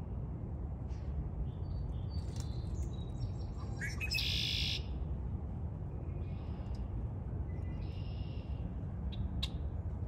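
Several wild birds chirping and calling in short, separate phrases, with one louder, harsh call about four seconds in, over a steady low rumble.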